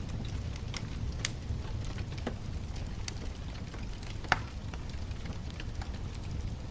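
Wood bonfire crackling, with scattered sharp pops over a low steady rumble; the loudest pop comes about four seconds in.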